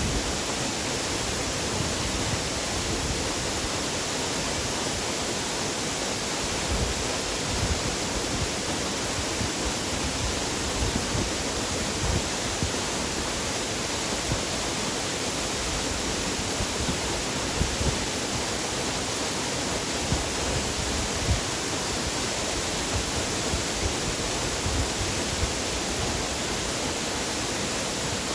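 Waterfall: falling water in a steady, even rush that does not change.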